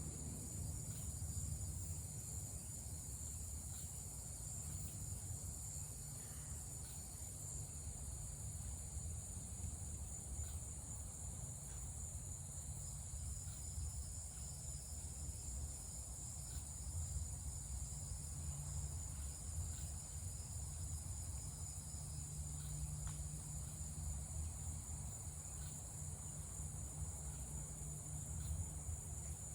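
Steady high-pitched chorus of crickets and cicadas, over a low steady rumble.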